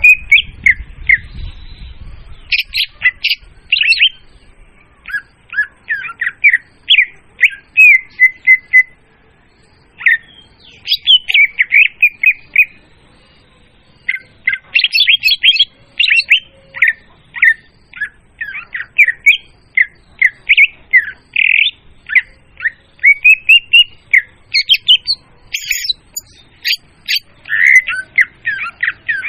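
Leafbird (murai daun) singing loudly: fast runs of sharp chirps and quick whistled sweeps in phrases a few seconds long, broken by brief pauses. This is a lure recording of the song, used to call the bird in.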